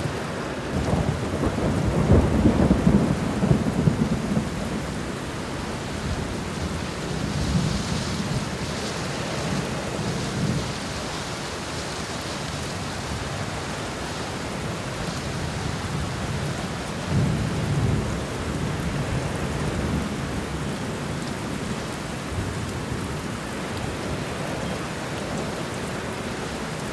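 Steady rain falling with rolling thunder: a long, loud rumble in the first few seconds, then weaker rumbles about a third of the way in and again just past the middle.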